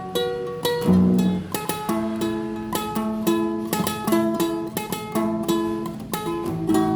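Solo classical guitar playing rapid, evenly repeated plucked notes over sustained lower bass notes.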